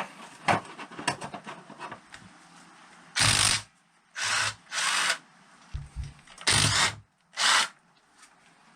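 Power tool run in five short bursts of about half a second each, working at a fastener on a motorcycle engine, after a few seconds of light clicks and handling noises.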